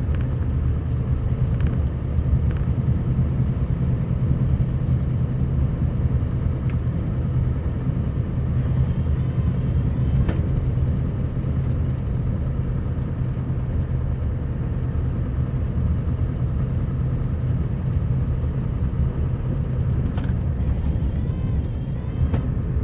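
Scania R560 truck's V8 diesel engine running steadily while pushing a snow plow through deep snow, a continuous low drone.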